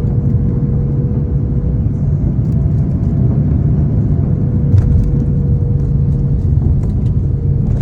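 Jet airliner landing: a loud, steady low rumble with a constant hum, and a few faint ticks in the second half.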